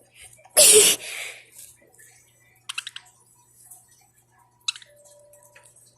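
Pet parakeets moving about their cage, giving scattered sharp clicks and taps. A short, loud, hissy burst comes about half a second in.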